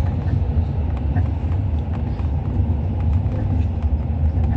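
Cabin noise of a Hyundai Universe coach under way: a steady low rumble of engine and road, with a few faint rattles.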